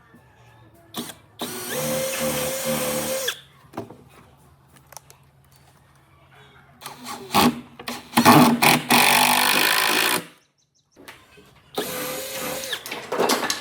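Handheld electric power tool, drill-like, run in three bursts of a few seconds each with a steady whine, the middle one the longest; light knocks of work on wood between them.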